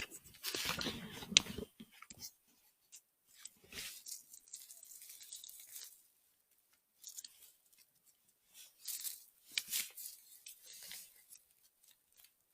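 Rustling and crunching in dry forest-floor litter, loudest in the first second and a half with a sharp click near its end, then scattered quieter rustles.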